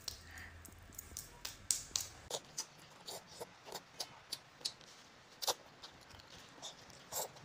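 A young child chewing food: irregular crisp crunching and smacking clicks, a few a second.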